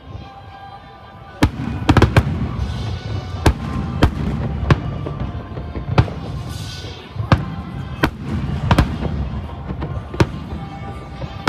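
Aerial firework shells bursting in the sky with sharp bangs, about a dozen of them, roughly one a second, starting about a second and a half in, over background music.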